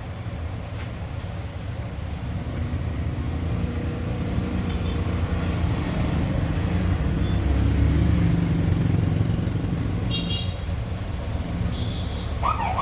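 A motor vehicle passing by, its low rumble building to a peak about eight seconds in and then fading, with a short high beep a couple of seconds later.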